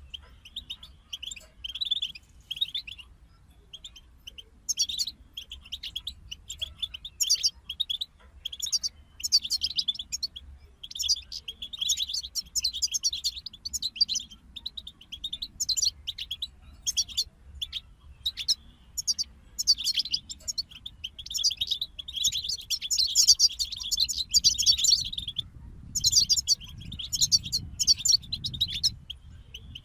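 European goldfinch singing: fast twittering, tinkling phrases broken by short pauses, over a faint low hum.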